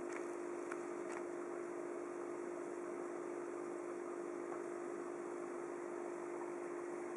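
Steady electrical hum over an even hiss, typical of an aquarium's running pump or filter, with a few faint ticks about a second in.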